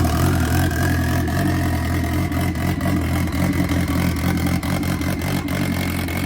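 Turbocharged Polaris RZR Pro R four-cylinder engine running steadily just after starting, with a thin whine that rises slowly in pitch.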